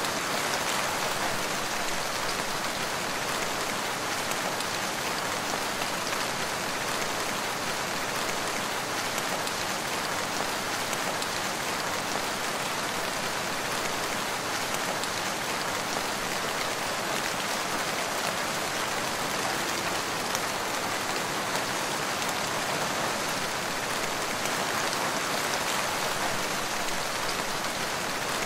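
Steady rain falling, an even hiss of countless drops on leaves and the ground with no letup.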